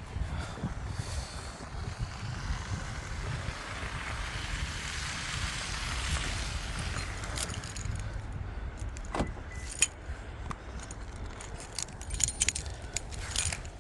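Car keys jangling, with a run of sharp metallic clicks and taps over the second half, over a steady low rumble.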